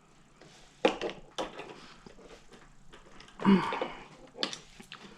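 Small sharp clicks and taps of tools and metal parts on a push mower's carburetor as the float bowl is worked loose, with a short throat clearing about three and a half seconds in.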